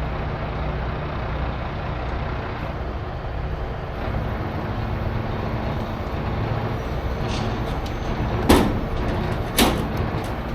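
Heavy tow truck's diesel engine running steadily. Near the end come two short, sharp hisses of air about a second apart.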